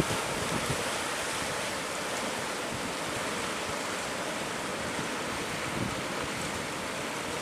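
Ocean surf breaking steadily, with wind on the microphone.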